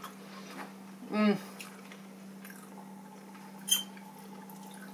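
Quiet chewing of pizza, with a short falling "mm" from one of the eaters about a second in and a single light clink of a fork on a glass plate near the end, over a steady low hum.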